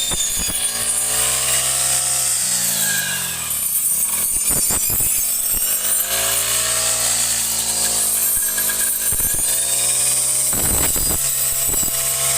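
Small engine-driven cutting tool running, its engine revving up and easing off in cycles every few seconds. There are a few short, sharp knocks.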